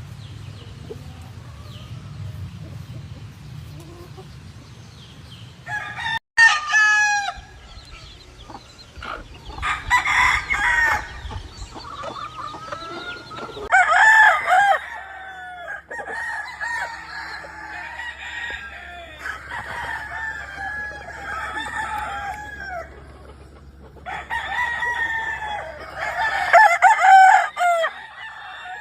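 Several gamefowl roosters crowing again and again, calls overlapping one another, with hen-like clucking between crows.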